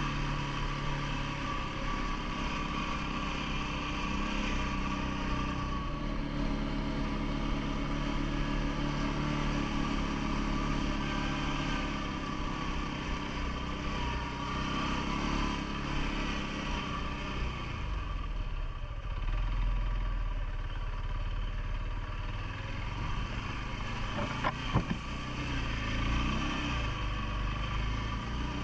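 CFMoto ATV engine running steadily, its note shifting now and then. A couple of sharp knocks come near the end.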